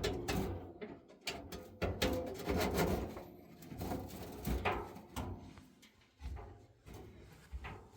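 Irregular knocks, clicks and low thuds, a clatter of things being handled.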